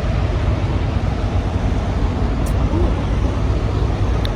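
Steady rumble of a semi truck under way, heard from inside the cab: deep engine and road noise with an even hiss of wind and tyres.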